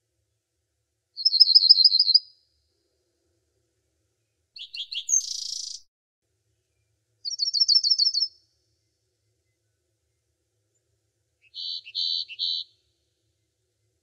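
Songbird calls in four short high-pitched phrases a few seconds apart: a rapid trill of about nine notes, a harsher buzzy call, another rapid trill, and a short run of a few buzzy notes, with silence between them. The first trill is the loudest.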